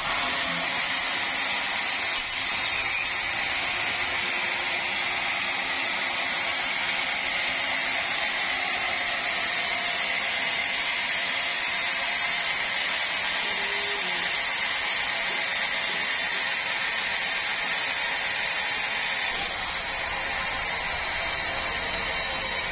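Sawmill saw running through a meranti log, a loud steady whine. The tone shifts about three-quarters of the way through.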